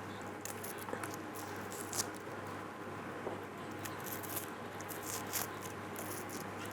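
Food-preparation handling noise: scattered small knocks, scrapes and rustles of ingredients being cut, peeled and moved about, over a steady low hum.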